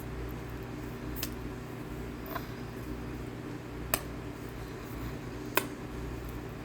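Chunks of cornstarch being chewed: four short, sharp crunches, spaced a second or more apart, over a steady low hum.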